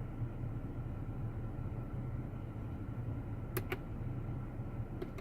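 Steady low hum of a car idling, heard from inside the cabin, with a quick pair of soft clicks about three and a half seconds in and another click near the end, typical of dashboard or steering-wheel buttons being pressed to scroll through the menus.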